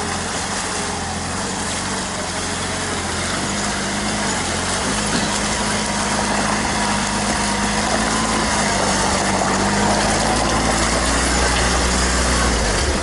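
Off-road vehicle engine running steadily at low revs, with the pitch and loudness rising a little about five seconds in.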